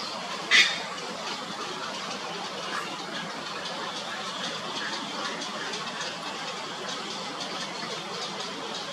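Steady outdoor background noise, with one short, sharp, high chirp-like sound about half a second in and a few fainter short chirps scattered later.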